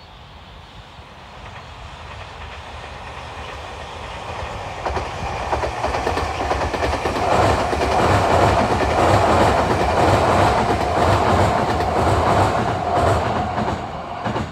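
Electric train passing: it grows louder over the first half, holds at its loudest with a clickety-clack of wheels over rail joints, and fades quickly near the end.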